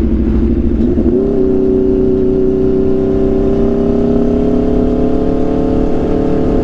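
Aprilia RSV4's V4 engine through an SC-Project CRT exhaust, heard while riding: the engine note rises about a second in, holds steady at higher revs, then drops back near the end.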